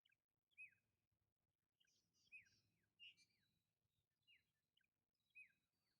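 Faint bird chirping: short, quickly falling chirps repeated about once a second.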